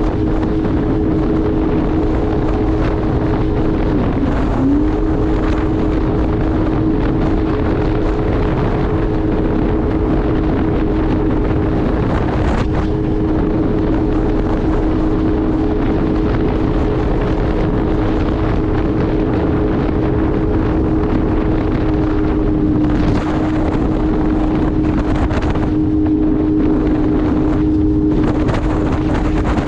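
Jet ski engine running at a steady high speed, with a short dip in pitch and recovery about four seconds in as the throttle eases and opens again. Wind buffets the microphone.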